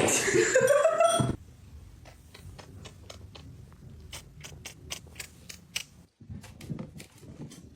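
A cat's loud meow rising in pitch, lasting about a second, followed by a few seconds of faint, quick clicks.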